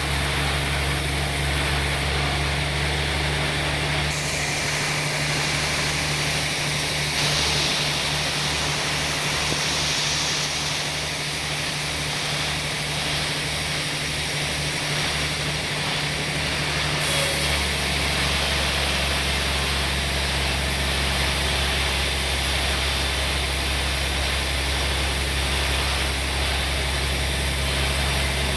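Sawmill machinery running steadily with a deep engine hum. From about four seconds in to about seventeen seconds the low drone flutters unevenly, then it settles back to steady.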